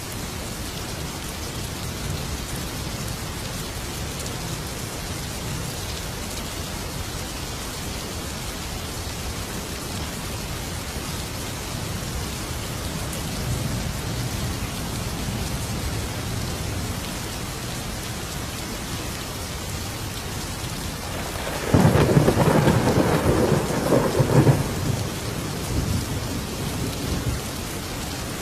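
Steady heavy rain of a thunderstorm, with a distant low rumble of thunder around the middle. Near the end a sudden loud thunderclap crashes and rumbles on for about five seconds before fading back into the rain.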